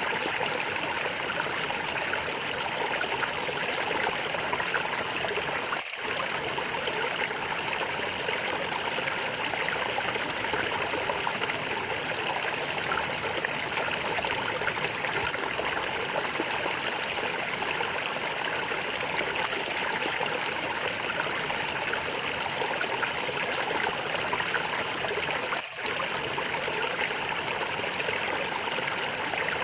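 Water gurgling and flowing steadily over stones in a small stream, dropping out for an instant twice.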